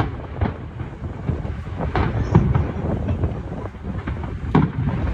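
Chrysanthemum firework shells bursting: a series of sharp bangs over a steady low rumble.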